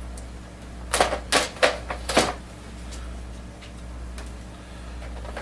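Four sharp plastic clicks and knocks in quick succession from about a second in, with a couple of faint ticks later, as the printer's plastic tray cover and packing pieces are handled. A steady low hum runs underneath.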